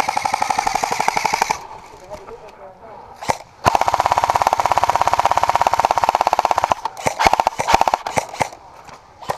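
Airsoft rifle firing on full auto: a rapid, even burst of about two seconds, a single shot, then a longer burst of about three seconds, followed by a few scattered shots near the end.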